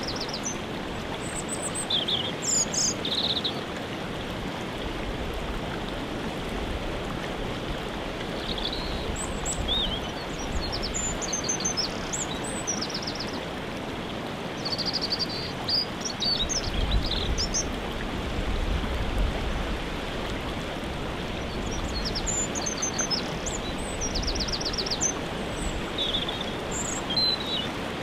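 Steady rushing of a waterfall, with songbirds chirping and trilling in short calls now and then above it.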